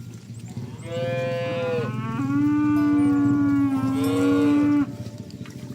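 Oxen mooing: overlapping calls begin about a second in, with a long, steady, lower moo that cuts off sharply near the five-second mark. A steady low hum runs underneath.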